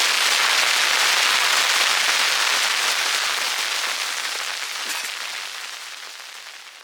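Heavy rain coming down hard in a dense, crackling hiss, fading out over the last few seconds.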